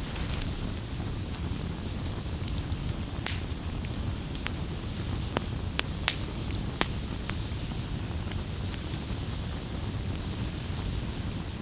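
Wood fire crackling: irregular sharp pops and snaps, a few louder ones in the first half, over a steady low rumble.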